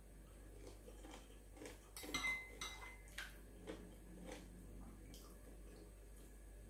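Metal spoon clinking against a glass soup bowl, with a sharp clink about two seconds in that rings briefly, then a few softer taps as she scoops soup.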